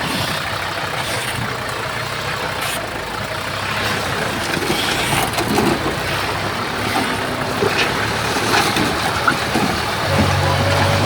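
Heavy diesel earthmoving machinery working, with engines running under a steady rattle and scraping of dirt and tracks. About ten seconds in, a deeper engine note comes in louder.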